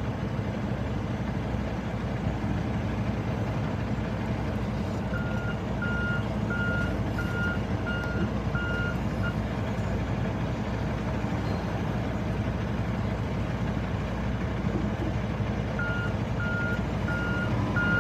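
Diesel truck engine idling steadily, with a backup alarm beeping about one and a half times a second in two runs: from about five seconds in for four seconds, and again near the end.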